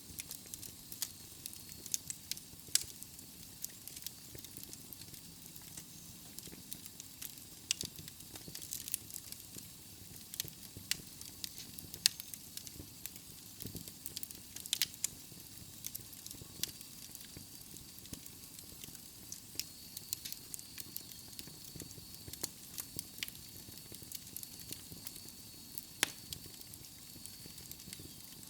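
Wood logs burning in a fireplace, crackling steadily with irregular sharp pops over a soft hiss. A faint high whistle comes in about halfway through.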